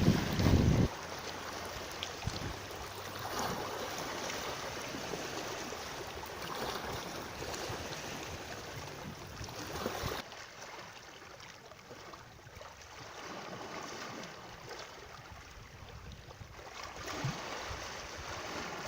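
Water flowing steadily outdoors, a continuous wash that swells and eases, with a low rumble of wind buffeting the microphone for the first second.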